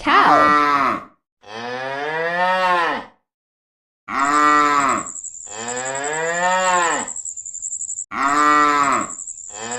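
Cow mooing five times, in long loud calls that rise and fall in pitch, some short and some drawn out. A thin, steady high-pitched tone sounds behind the later calls.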